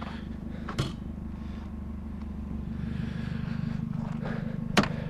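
A car engine idling steadily, with two sharp knocks: one about a second in and one near the end.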